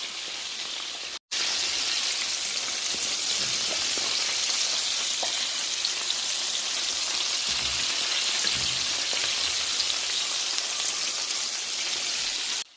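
Cornstarch-coated chicken gizzards deep frying in hot oil: a steady, dense sizzle and crackle, cut off abruptly once about a second in and again near the end.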